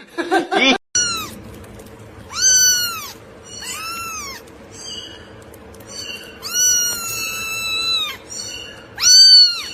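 A domestic cat meowing repeatedly: about five meows, each rising and falling in pitch, with one long drawn-out meow past the middle and a loud one near the end.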